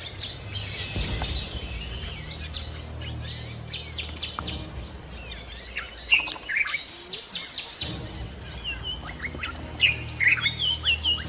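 Several wild birds chirping and calling: quick high trills repeated every second or two, then a run of short falling chirps in the last few seconds, over a low steady hum.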